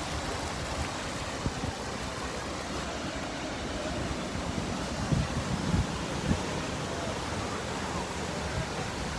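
Waterfall rushing as a steady, even noise, with a few dull low thumps about five to six seconds in.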